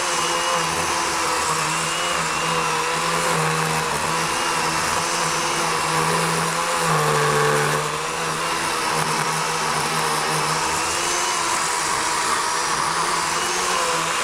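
Worx WG384 40-volt cordless electric chainsaw with an 18-inch Oregon bar running steadily while making an undercut through a fallen log. Its pitch dips briefly about halfway through as the chain takes more load.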